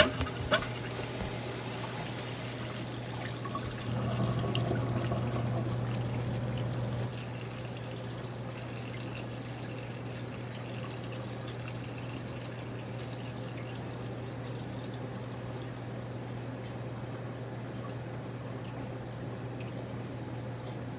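Magic Chef 1.6 cu ft portable washing machine draining: a steady low hum of the drain pump with dirty water pouring out. It gets louder for about three seconds starting about four seconds in, then settles back to a steady level.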